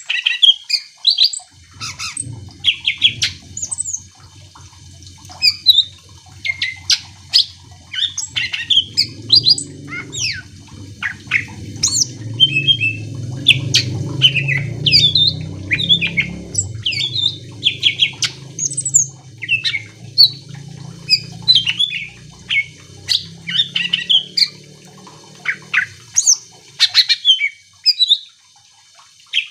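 A greater green leafbird (cucak ijo) singing lively and without pause, a fast, dense string of sharp chirps, whistles and chattering notes. A low rumble runs underneath from about a second and a half in until near the end.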